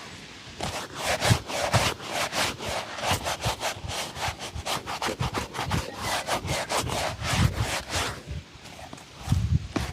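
A shoe being buffed during a shoe shine: quick back-and-forth rubbing strokes on the leather, about four a second, pausing briefly near the end before starting again.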